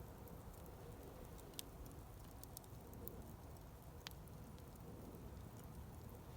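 Wood campfire burning quietly, with scattered sharp crackles and pops over a faint low rustle of the flames.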